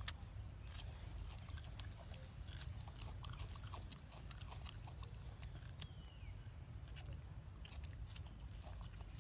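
Monkeys eating, with irregular crunching and chewing clicks of food being bitten. A faint short squeak falls about six seconds in.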